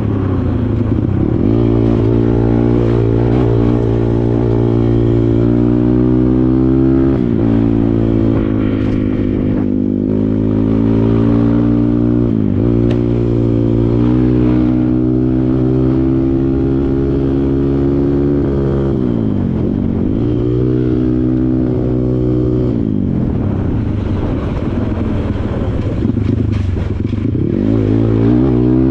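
Kawasaki KLX140 trail bike's single-cylinder four-stroke engine running hard under load, the revs dropping sharply and climbing back up five or six times.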